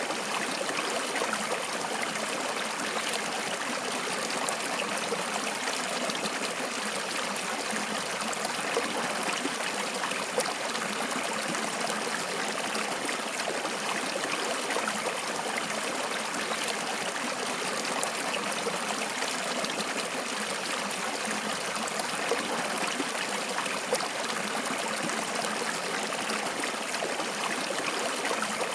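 Running water of a stream flowing steadily, with small splashes and trickles over a constant rushing sound.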